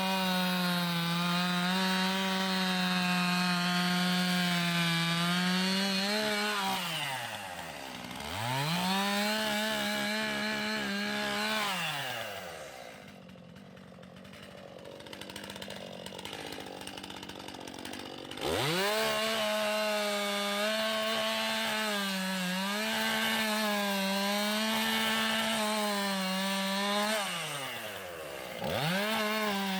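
Stihl chainsaw cutting logs at full revs, with its engine pitch held steady under load. Between cuts it drops off and revs back up, about a quarter of the way in and again near the end. Around the middle it runs slower and quieter for several seconds before revving up sharply into the next cut.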